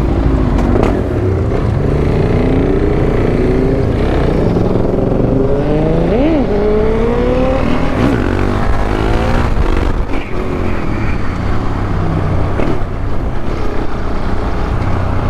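Motorcycle engines on the move, their pitch rising and falling with throttle and gear changes, with one quick sharp rev up and back down about six seconds in, over a steady low rumble of wind and road.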